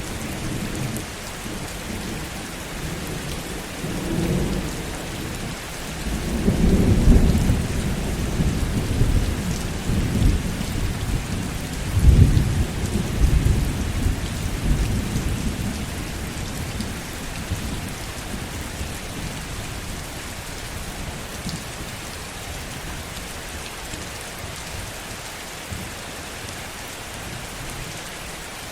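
Heavy rain falling in a steady hiss, with a rolling rumble of thunder that builds about six seconds in, peaks twice and dies away about halfway through.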